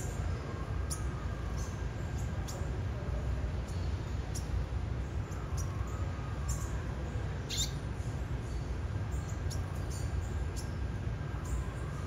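Small birds giving short, high-pitched chirps at irregular intervals, with one longer chirp about halfway through, over a steady low rumble.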